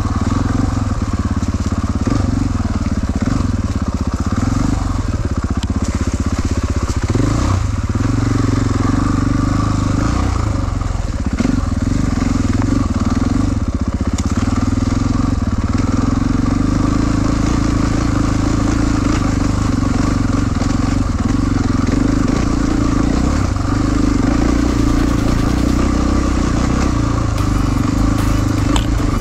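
450 cc four-stroke enduro motorcycle engine running under load as the bike is ridden, its note rising and falling with the throttle.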